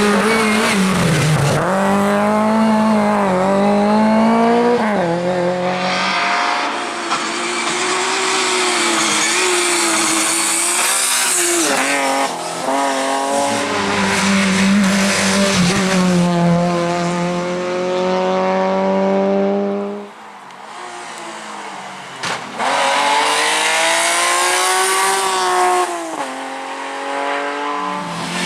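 Rally cars driven hard on a stage: engines revving up through the gears, pitch climbing then dropping at each shift, with some tyre squeal. About 20 s in the engine noise drops away, and about 22 s in another rising engine comes back.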